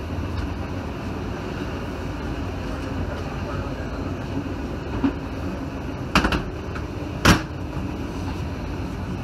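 Steady running rumble of a 1980s passenger train coach in motion, heard from inside. A couple of sharp clunks come about six and seven seconds in, the second the loudest.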